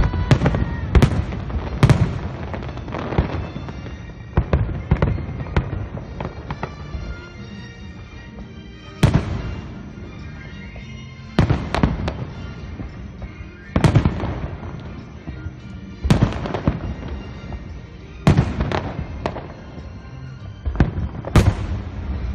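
Aerial fireworks shells bursting with loud booms that come thick and fast at first, then in ones and twos about every two seconds.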